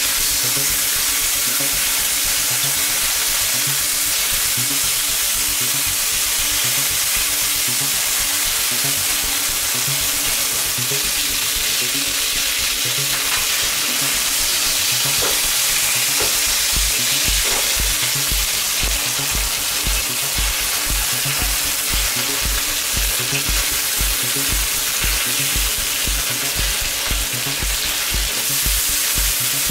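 Pork chops sizzling steadily in hot oil in a wok, with metal tongs clicking against the pan a few times. A steady low beat of background music runs underneath.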